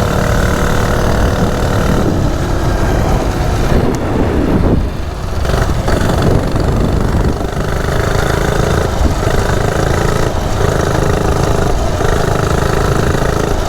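Coleman CT100U minibike's small single-cylinder engine, running ungoverned with a drilled-out carburetor jet, under throttle while riding. The revs and level dip briefly about five seconds in, then it runs steadily again. The rider feels a loss of power at full throttle.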